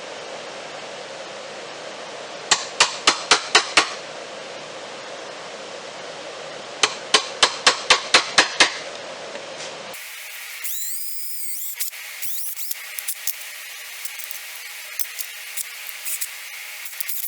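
Two quick runs of sharp hammer taps, seven or eight strikes each at about five a second, over a steady shop hum. About ten seconds in the sound cuts to background music with scattered light clicks.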